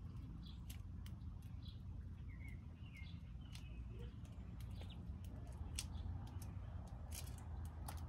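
Birds at a feeder giving short, scattered chirps, with frequent sharp clicks and a steady low rumble underneath.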